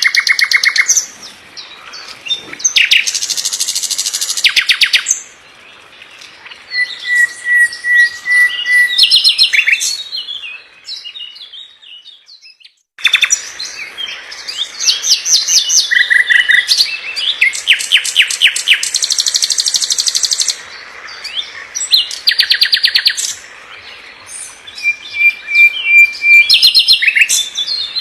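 A songbird singing loud, fast phrases: rapid trills, dry rattling strokes and runs of short whistled notes, in bursts with brief pauses. About twelve seconds in the song cuts off abruptly for about a second, then starts again.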